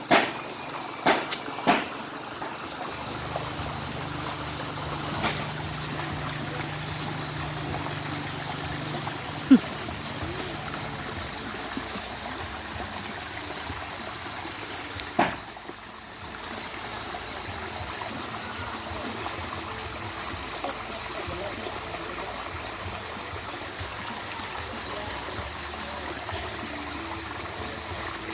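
Water running and trickling steadily, with a few sharp knocks in the first two seconds and single knocks about nine and a half and fifteen seconds in.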